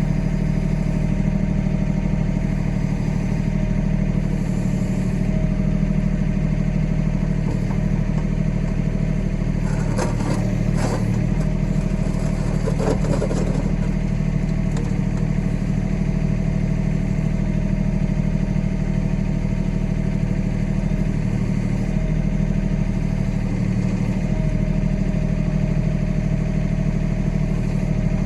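Kioti compact tractor's diesel engine running steadily while the backhoe works, with a spell of clatter about ten to fourteen seconds in.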